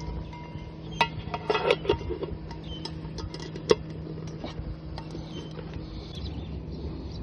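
Metal tableware and camp cookware clinking and knocking together: scattered sharp clinks, a cluster about a second in and the sharpest near the middle, over a steady low hum.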